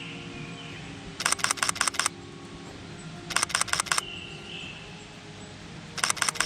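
Camera shutter firing in three rapid bursts of continuous shooting, roughly ten clicks a second, the first about a second in and the last near the end. Between bursts a Japanese thrush sings faintly, one short whistled phrase.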